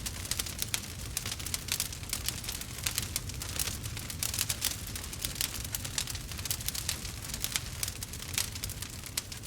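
Burning wood crackling and popping continuously in rapid, irregular snaps over a low steady rumble of the flames.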